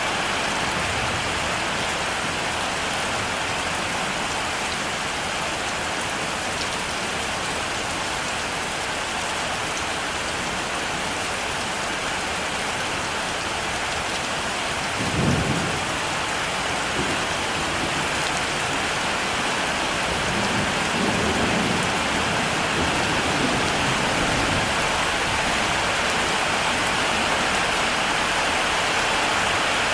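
Heavy rain falling steadily. About halfway through comes a short, loud clap of thunder, followed a few seconds later by softer low rumbles.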